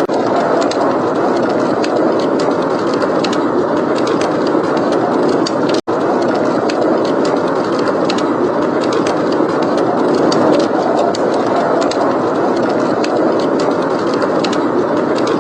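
Steady howling blizzard wind, with a wood fire crackling in many small sharp pops over it. The sound cuts out for an instant about six seconds in.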